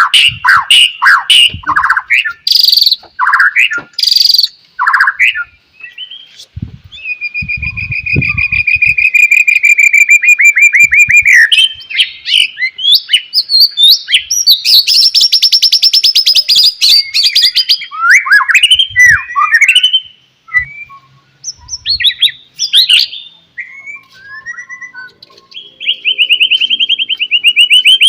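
White-rumped shama (murai batu) singing loudly in a varied, continuous song of quick whistled notes and fast rattling trills.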